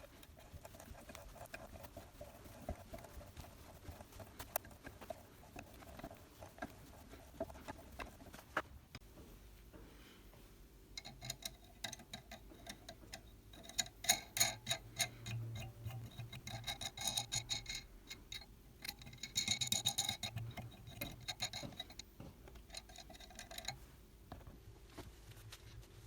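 Quick repeated rubbing strokes on a surface, in bouts that start about a third of the way in and stop near the end, over a faint steady hum.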